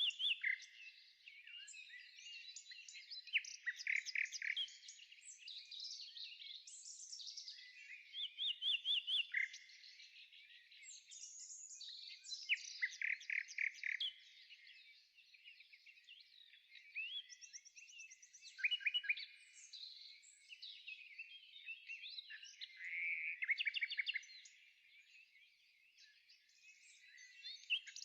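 Several birds singing at once, a busy chorus of chirps and quick trills that comes and goes.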